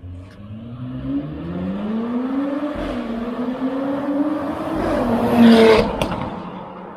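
Porsche Cayenne Coupe 3.0T's turbo V6 through a catless Tneer full exhaust system, accelerating hard with the pitch climbing. It is loudest about five and a half seconds in, then the note drops away quickly and fades.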